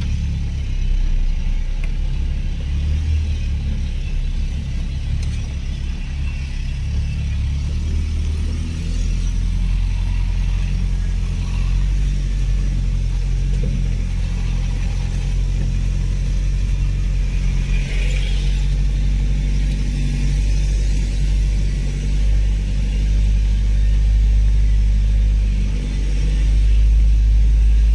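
Off-road 4x4's engine running at low speed, heard from inside the cab as it drives over a rough dirt track, with a deep, steady note. The engine note shifts about nine seconds in and gets louder near the end.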